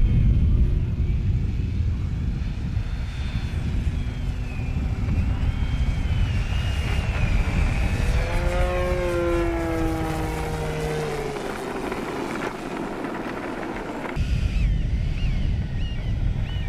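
Electric ducted-fan model jet (twin 70mm EDFs) whining at low throttle while taxiing, the whine wavering in pitch, over a heavy rumble of wind on the microphone. In the middle a stack of tones falls in pitch as something passes by, and there is a sudden change about fourteen seconds in.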